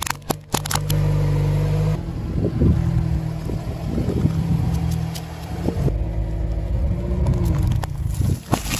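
A car's engine runs low and steady close to the tyre, its note swelling now and then. In the first second, sharp cracking snaps come from hard plastic breaking under the tyre. More crackling starts near the end.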